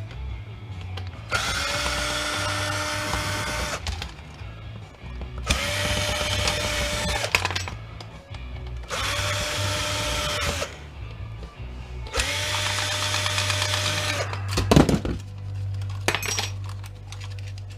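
Cordless drill-driver running in four bursts of about two seconds each, backing out Phillips screws, with a steady motor whine in each run. A single sharp knock comes near the end.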